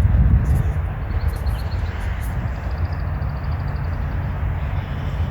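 Steady low rumble and hiss of outdoor noise on the microphone, with a faint, rapid series of high chirps from about a second in.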